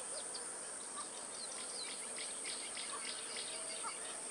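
Outdoor nature ambience: insects chirping in short high strokes a few times a second, with faint, brief bird calls.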